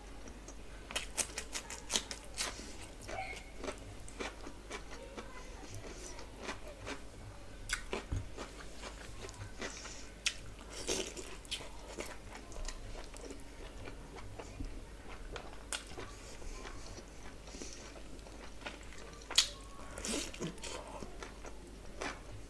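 Close-miked eating: chewing and biting chicken dum biryani eaten by hand, with a steady scatter of sharp wet mouth clicks and smacks. One smack near the end stands out well above the rest.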